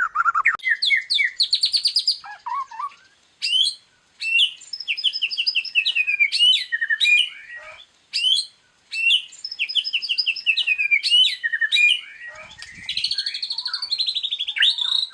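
White-rumped shama (murai batu) singing a long, varied song of fast repeated trills and sweeping whistles, broken by brief pauses.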